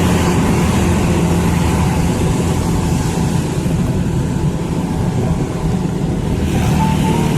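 Car driving at a steady pace: a constant low engine and road drone.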